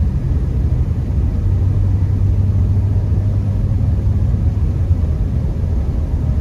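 Honda Accord driving on a snowy road, heard from inside the cabin: a steady low rumble of engine and tyres.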